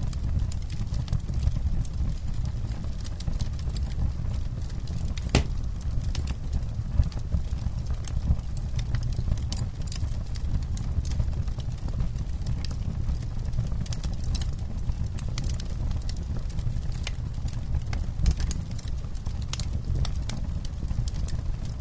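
Wood campfire crackling, with irregular sharp pops and snaps over a steady low rumble of the burning fire; one louder pop a little over five seconds in.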